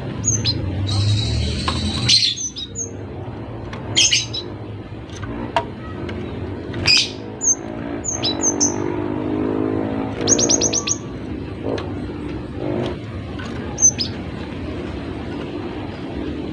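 Cinereous tit (gelatik batu) calling: short high chirps scattered throughout, with a quick chattering run of about six notes about ten seconds in. A few sharp, louder clicks stand out, over a low steady hum.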